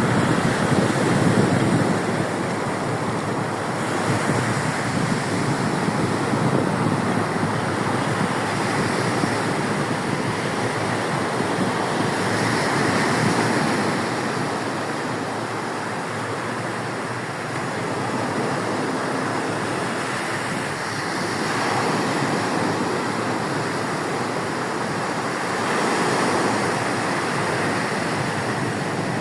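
Sea surf breaking on a beach: a steady wash of waves that swells and eases every few seconds, with wind on the microphone.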